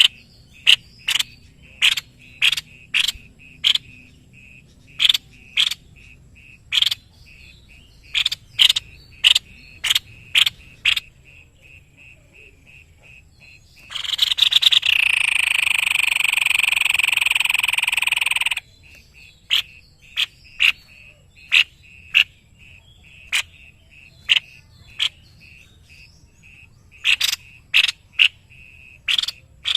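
White-necked babbler calling: a long series of short, sharp, high notes, one or two a second with brief pauses, broken midway by a harsh buzzing call lasting about four seconds.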